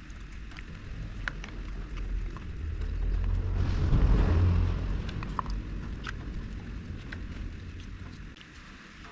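Low rumble of a vehicle passing by, swelling to a peak about four seconds in and then fading, with light scraping and tapping of a spreader working body filler.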